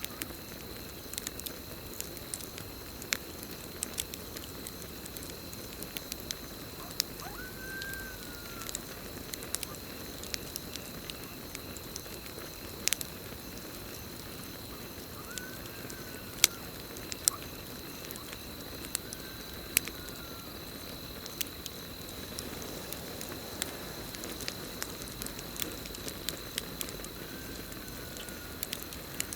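Campfire burning with frequent sharp crackles and pops over a steady hiss. Underneath is a constant high insect trill, and a short rising-then-falling call sounds four or five times, a few seconds apart.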